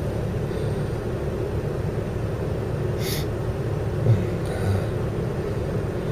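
Steady low engine rumble heard from inside the cab of a snow-clearing vehicle with a loader bucket. A short hiss comes about three seconds in, and a light knock about a second later is the loudest moment.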